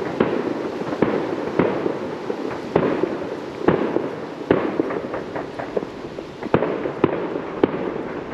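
Fireworks going off all around: many irregular sharp bangs and pops over a continuous background crackle.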